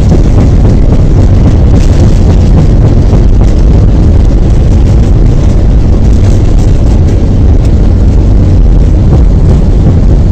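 Loud, steady rumble of an airliner's engines and rushing air, heard from inside the passenger cabin during the approach or landing.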